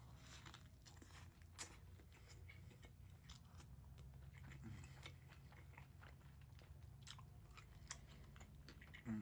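A person chewing and biting crunchy food close to the microphone: many small, quiet crunches and clicks.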